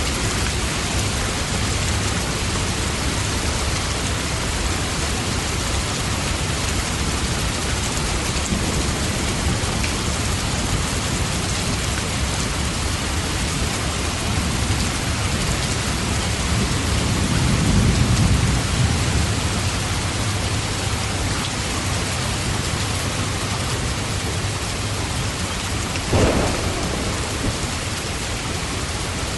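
Steady rain falling, with thunder: a low rumble swells up about two-thirds of the way through, and a short sharp crack comes near the end.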